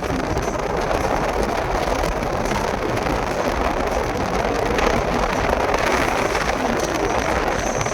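Steady road and engine noise of a vehicle on the move, an even rushing sound with no distinct events.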